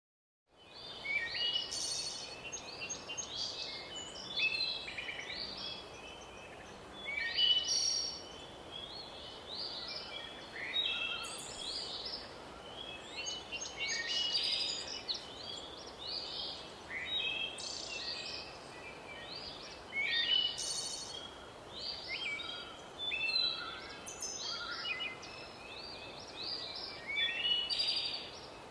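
Songbirds singing: a steady run of short chirps and whistled notes, with a louder phrase every few seconds over faint background hiss.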